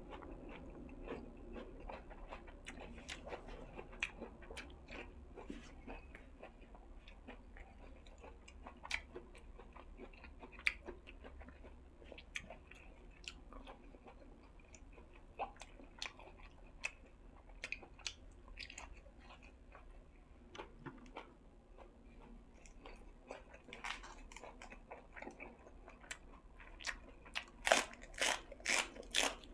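A person chewing and biting crunchy food close to the microphone, with wet mouth sounds and scattered crisp crunches. Near the end comes a quick run of louder crunching bites, about two or three a second.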